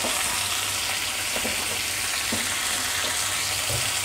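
Cluster beans frying in mustard oil in a kadhai, a steady sizzle as they are stirred and turned with a spatula, with a few light ticks of the spatula against the pan.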